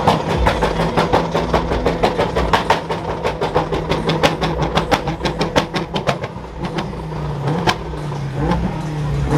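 A car engine running, with a fast run of sharp crackles, about five or six a second, that thins out after about six seconds.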